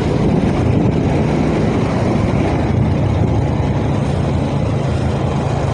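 Motorcycle engine running steadily on a rough dirt road, under a loud even rush of wind and road noise on the microphone.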